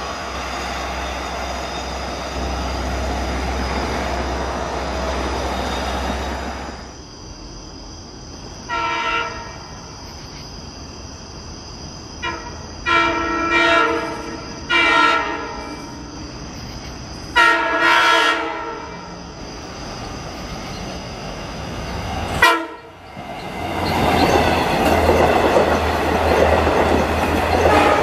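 Long Island Rail Road diesel train sounding its multi-note horn in five blasts, some long and some short, between stretches of steady rumbling train noise. A sharp click follows, then the rumble builds again near the end.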